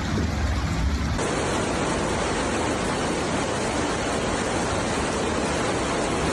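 Floodwater rushing in a steady, loud torrent, coming in abruptly about a second in after a low rumble.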